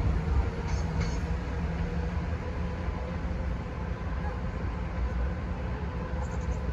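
Diesel train running at the level crossing: a steady low rumble with a few faint held tones over it.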